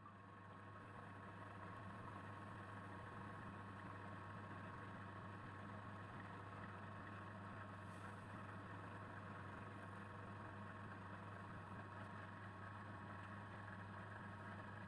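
Faint steady hum with a thin high tone held through it, as of an electric motor running.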